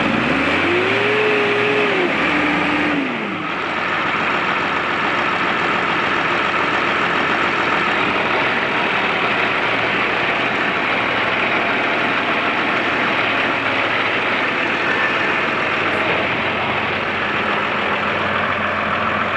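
New Holland TV145 tractor's diesel engine revved up and held for about three seconds, stepping down and dropping back, then running steadily.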